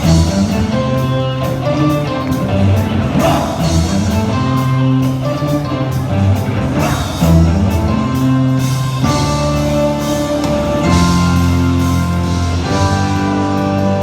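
Live band playing an upbeat disco-rock song, with drum kit and guitar over a steady beat.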